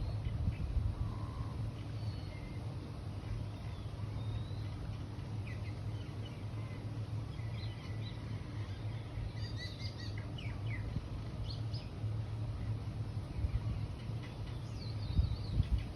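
Small birds chirping and calling in short, scattered high notes, busiest in the second half, over a steady low rumble.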